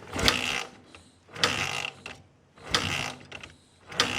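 A mechanism working in four rasping strokes, evenly spaced about a second and a half apart.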